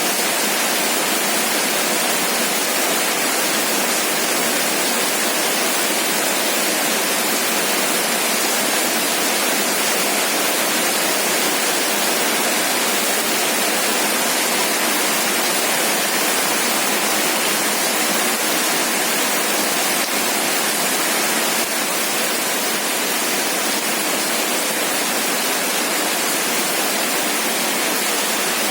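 Heavy rain falling steadily: an even, unbroken hiss with no thunder or other sounds standing out.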